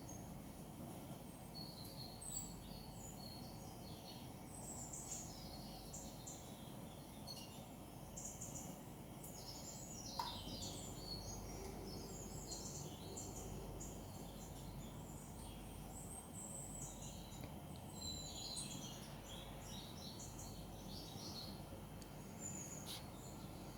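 Small birds chirping and twittering, played through a television's speakers, over a steady low hum. A single short click about ten seconds in.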